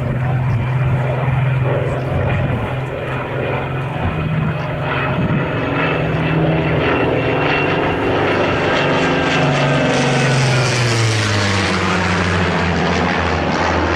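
A Spitfire and a Hurricane flying past, their Rolls-Royce Merlin V12 piston engines running loudly and steadily. About eleven seconds in, the engine note drops in pitch as the planes pass.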